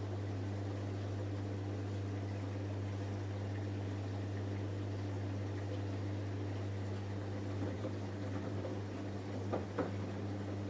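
Samsung Eco Bubble washing machine running early in a 20 °C cotton wash cycle: a steady low hum, with a few light knocks near the end.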